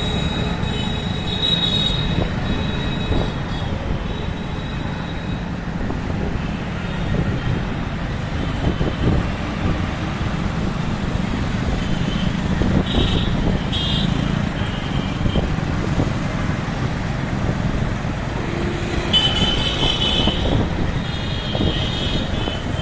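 Busy street traffic heard from a moving motorbike: a steady low rumble of engines and road noise, with vehicle horns honking at the start, again in the middle, and several times near the end.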